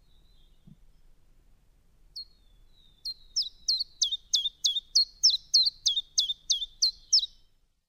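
Common chiffchaff singing: an even series of about a dozen short high notes, each dropping sharply in pitch, about three a second, starting a few seconds in.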